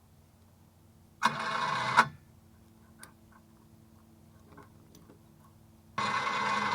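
A vehicle engine is cranked briefly for under a second, then after a few light clicks it starts suddenly and runs steadily near the end.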